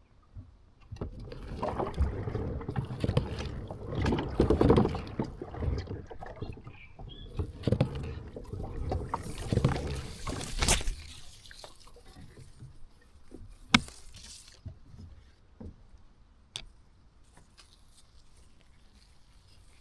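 Kayak on the water: splashing and knocks against the hull, busy for about ten seconds, then quieter with a few sharp clicks.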